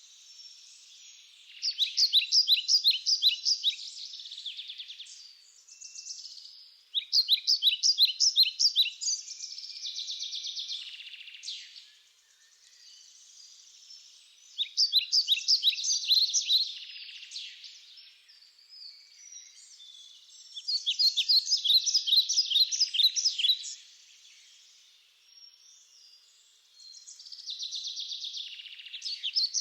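A songbird singing the same song five times, about every six seconds. Each song is about two seconds of quick, high, repeated notes, with softer calls in the gaps.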